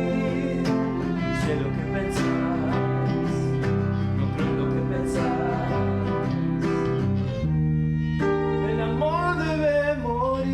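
Acoustic rock band playing, with strummed acoustic guitars over a bass line. About three-quarters of the way through, the regular strumming gives way to a held chord, over which a wavering melody line sounds.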